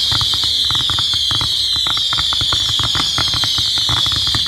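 Fireworks going off: a dense, rapid run of crackling pops under a continuous high whistling that slowly falls in pitch.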